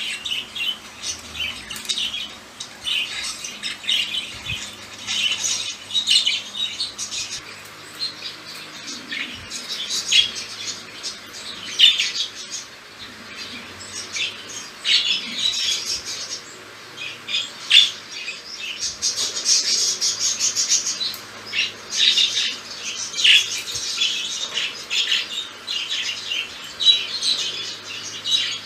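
Budgerigars chattering and warbling without a break, full of quick, sharp, high-pitched notes and clicks.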